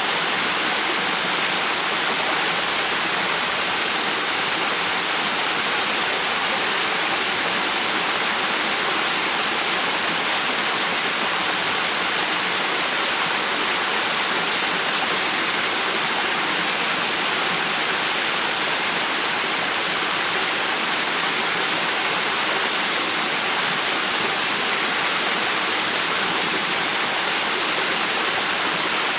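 River water rushing and flowing in a steady, unbroken hiss, mostly in the higher range.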